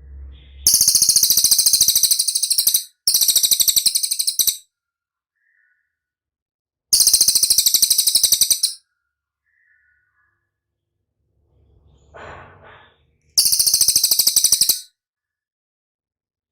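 A songbird, the cililin of the title, singing four loud, very high-pitched rapid trills of one and a half to two seconds each, with short pauses between them and a longer gap before the last, plus a few faint soft chirps in the gaps.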